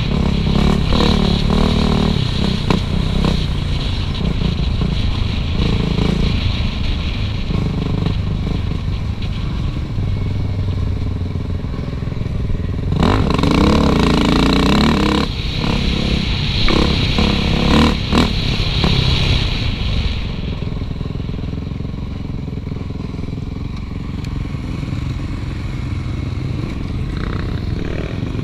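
Suzuki RM-Z450 four-stroke single-cylinder dirt bike engine running as the bike is ridden, the revs rising and falling, with clatter and scraping from the bike. It revs hardest about 13 seconds in, then runs quieter over the last third.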